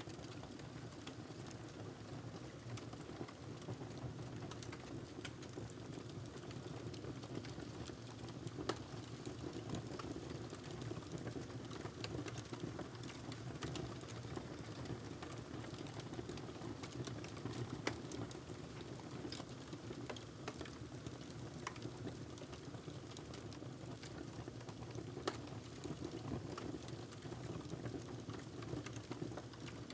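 Wood fire burning in a fireplace: a steady low rush of flames with irregular crackles and pops, a couple of them sharper than the rest.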